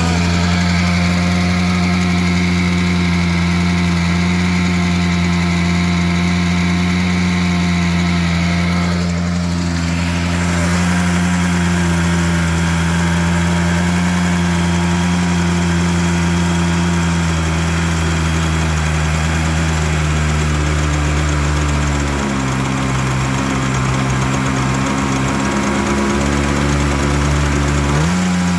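Jet boat engine running steadily while its carburetor is tuned; its speed steps down twice, in the second half, and rises briefly near the end.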